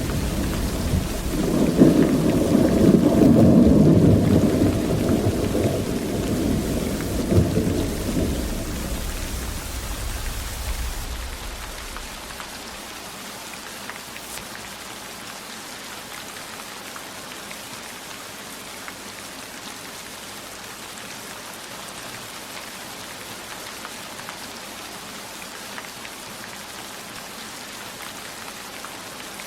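Steady heavy rain, with a long rumble of thunder through the first half that swells about two seconds in, gives a sharper crack near the middle, and rolls away after about ten seconds, leaving the even hiss of the rain.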